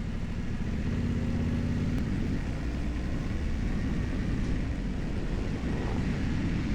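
Yamaha Ténéré 700 parallel-twin motorcycle engine running at low speed, a steady low rumble with a brief higher hum about a second in.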